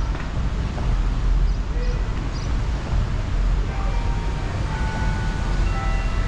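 Steady downtown street noise: a low rumble of traffic under an even hiss, with faint held tones from about halfway through.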